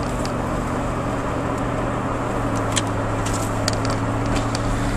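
Pickup truck's engine running steadily with road noise, heard inside the cab while driving, with a few sharp ticks and rattles.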